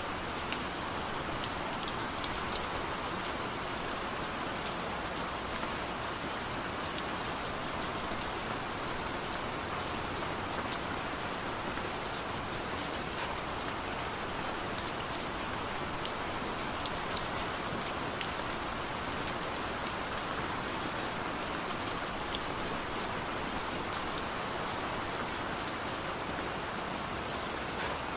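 Steady rain falling, with scattered sharp drips of individual drops standing out against the hiss.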